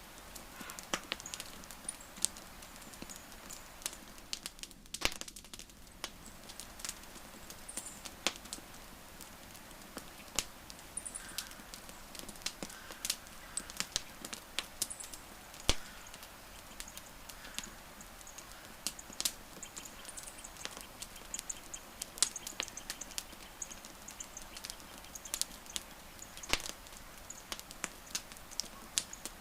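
Wood campfire crackling: irregular sharp pops and snaps of varying loudness, some close together, over a faint steady hiss of burning.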